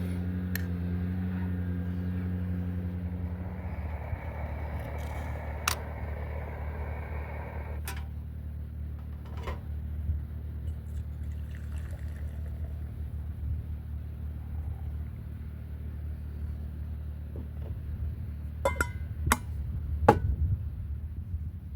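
A steady low mechanical hum, with several light clinks and knocks, a few of them close together near the end.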